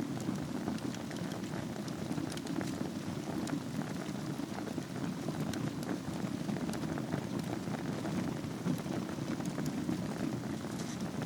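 Wood fire burning in a fireplace over glowing embers: a steady low rushing with scattered faint crackles and pops.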